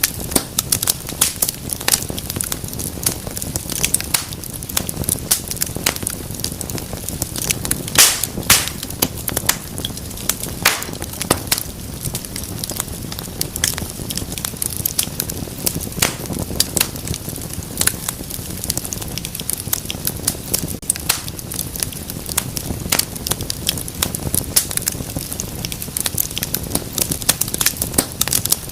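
Wood fire burning in a fireplace: a steady low rumble of flames with frequent sharp, irregular crackles and pops, one of the loudest pops about eight seconds in.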